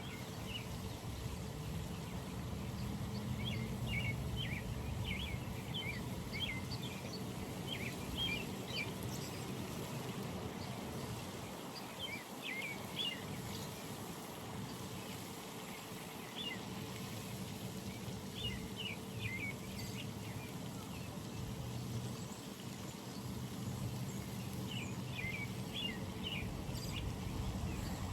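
Birds chirping in short bouts of quick high calls every few seconds, over a steady low background hum.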